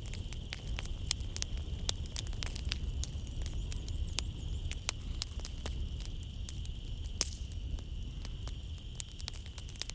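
Wood fire crackling in a fireplace, with irregular sharp pops and snaps over a low, steady rumble of the flames. A steady high-pitched drone runs behind it throughout.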